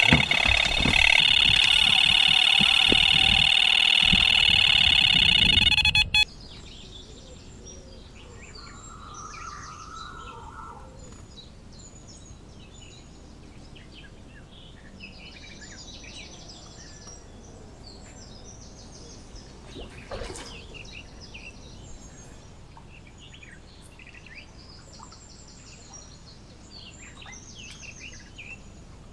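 Birds chirping and singing, scattered short calls. They follow a loud, steady sound made of several high tones over a low rumble, which stops suddenly about six seconds in.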